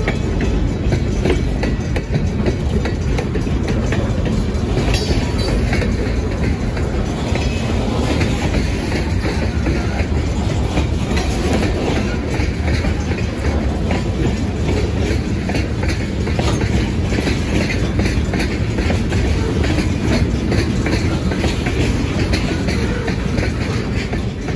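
Freight train cars rolling past at close range: a steady rumble of steel wheels on rail, with many quick clicks of the wheels over the rail joints.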